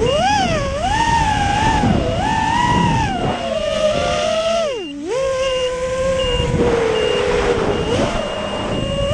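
FPV racing quadcopter with Emax 2205 2300kv RedBottom brushless motors and DALProp Cyclone three-blade props in flight. The motors' whine rises and falls with throttle, drops sharply about five seconds in as the throttle is chopped, then picks back up and holds steadier. Wind rushes underneath, and a thin high tone cuts in and out in the second half.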